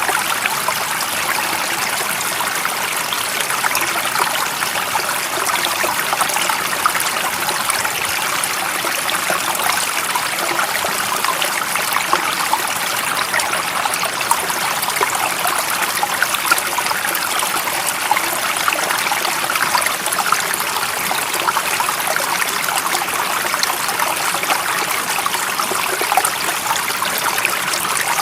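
Stream of water running and trickling steadily, a constant splashing rush.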